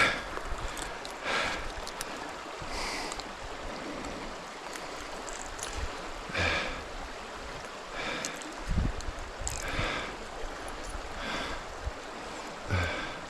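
Creek water running steadily, with short puffs of noise every second or two and one low thump near the end.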